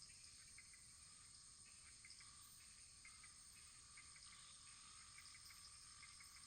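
Wood fire burning faintly, with small irregular crackles and pops over a steady soft hiss.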